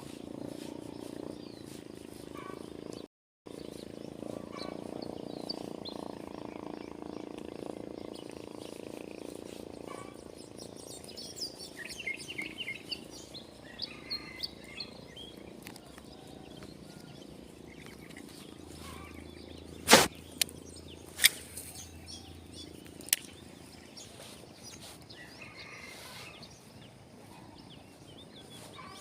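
Outdoor ambience with small birds chirping and a steady low rumble that fades after the first third. A few sharp clicks or knocks come close together in the second half, the first the loudest.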